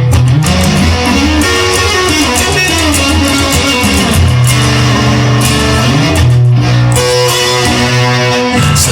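Music: an instrumental guitar passage over bass, with held notes that bend up and down in pitch, no singing.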